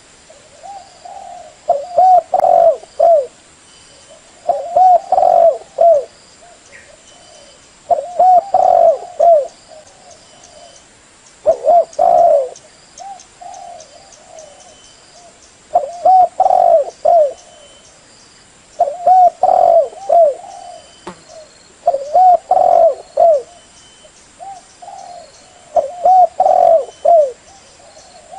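Female spotted dove cooing: a short phrase of several coos, repeated about every three seconds. This is the hen's call that trappers play to draw male doves.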